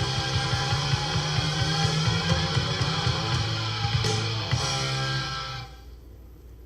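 Rock band recording with guitar and drum kit playing, then ending about two thirds of the way in, leaving a fading tail: the close of a song.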